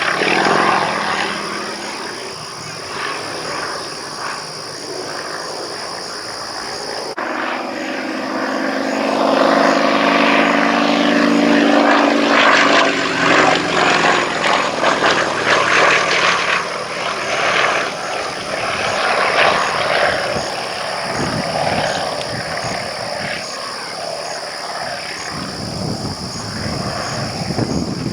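Pitts Model 12 aerobatic biplane's radial engine and propeller in flight, the pitch rising and falling as it manoeuvres. It grows loudest about ten to sixteen seconds in, then fades somewhat.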